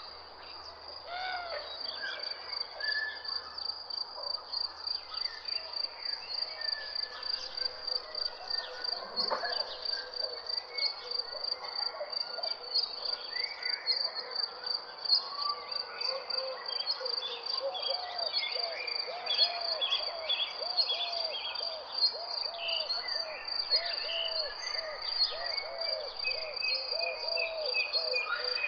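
Birds chirping and whistling over a steady, fast-pulsing high trill. From about halfway a low call repeats about twice a second.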